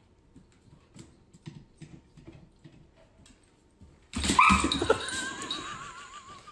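A dog whining: faint soft clicks, then from about four seconds in a louder high whine that glides and wavers in pitch.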